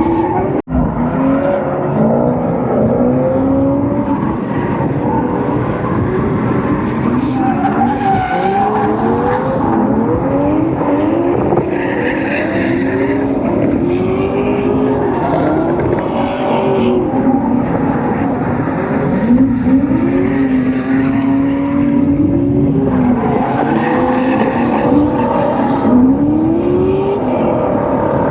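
Drift cars' engines revving up and falling off over and over, several at once, with tire squeal as the cars slide. There is a brief dropout about half a second in.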